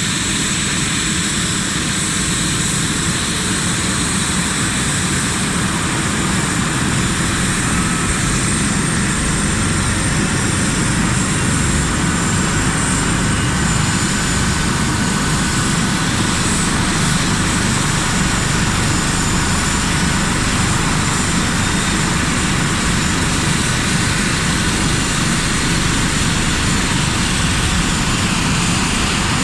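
Helicopter running steadily in flight, a continuous rotor and engine noise with a thin, high whine over it.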